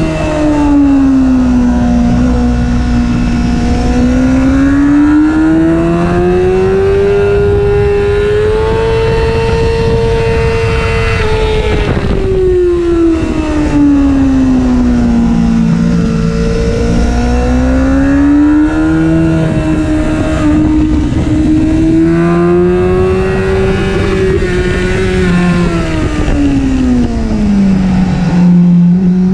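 Honda CBR600F's inline-four engine heard from on board at track speed, its revs rising and falling three times as the bike accelerates down the straights and eases off for corners. A heavy rush of wind noise runs underneath.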